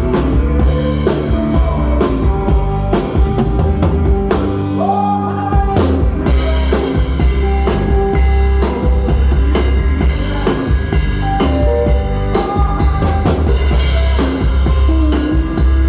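Live rock band playing: drum kit with frequent cymbal and drum hits over a heavy bass guitar line, and electric lead guitar holding and bending notes.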